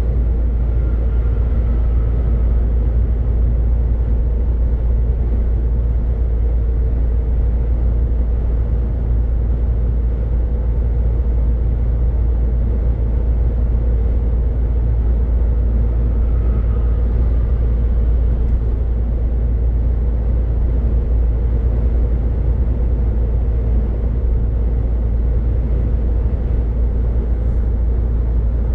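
MAN truck cruising on the motorway: a steady low rumble of engine drone and road noise that holds level throughout.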